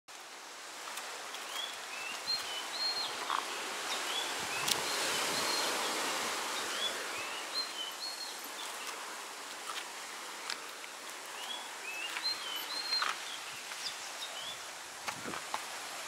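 A bird repeating a short whistled phrase of rising and level notes, three times about five seconds apart, over a steady rushing outdoor background. Scattered light clicks and steps on rock and dry leaves are heard along with it.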